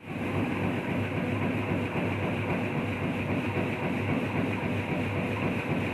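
A grain separator machine running steadily, with a low hum under a dense, continuous rattle.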